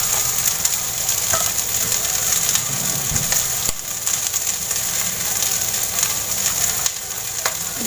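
Green beans sizzling steadily as they stir-fry in hot oil in a pan, with a few light scrapes and clicks of a spatula against the pan.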